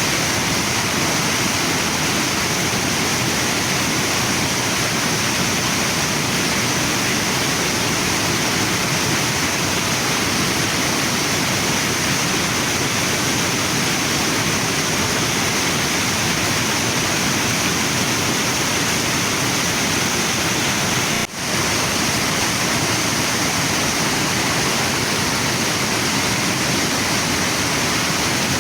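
Waterfall and river water rushing steadily, a dense even roar, with one momentary dip in level about three quarters of the way through.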